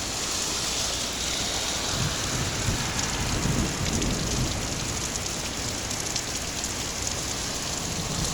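Heavy rain falling steadily in a severe thunderstorm, with a low rumble of thunder swelling about two seconds in and dying away a couple of seconds later.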